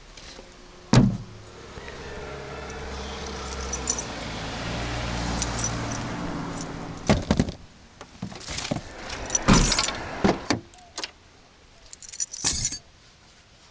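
A car: a sharp knock about a second in, then an engine running for about five seconds, swelling and fading, followed by a run of clicks and knocks.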